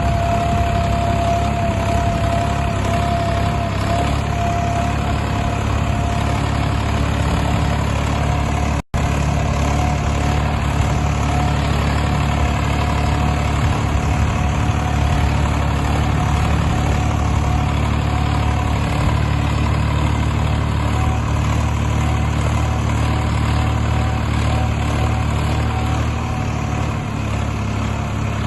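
Tractor engine running steadily at low revs, with a brief drop to silence about nine seconds in.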